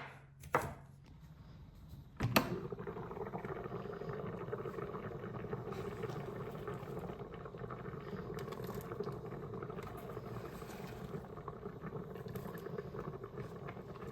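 A knock or two of knife chopping on a board, then about two seconds in food goes into a hot pan and sizzles steadily with fine crackling.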